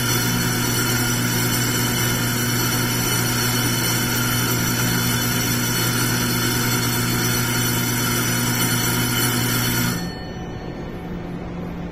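Railway platform departure bell ringing steadily, the signal for the local train to leave; it cuts off suddenly about ten seconds in.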